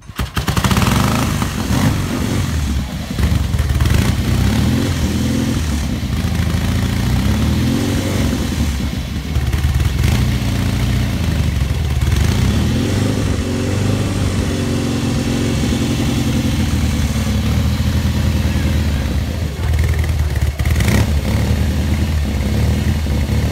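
Norton Dominator 650SS parallel-twin engine catching on the first kick after a complete restoration, then running and being revved repeatedly, its pitch rising and falling.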